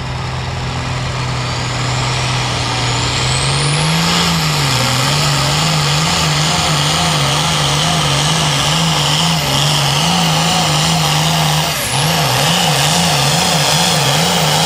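Pulling tractor's diesel engine under full load down the track, its note rising after a few seconds with a high whine climbing above it. The engine speed then surges up and down over and over, dipping once near the end, as the tractor bounces, loses traction and spins its wheels.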